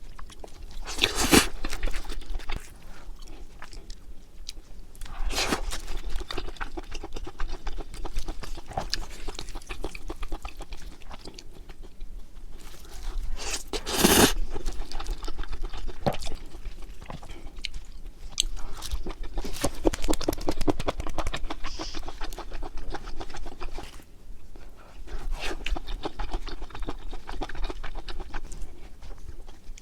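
Close-miked chewing of grilled pork large intestine (makchang): irregular crunching and chewing clicks, with two louder bites, one about a second in and one about halfway through.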